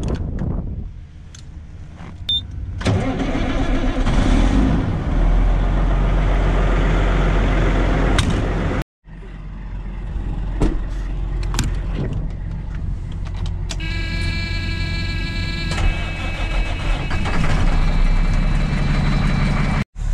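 A vehicle engine starts about three seconds in and runs with a heavy low rumble, broken off once near the middle. A steady whine with several pitches rides over it for a couple of seconds later on.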